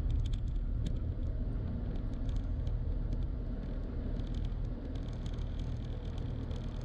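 Steady road rumble of a moving car heard from inside the cabin, with scattered faint light clicks.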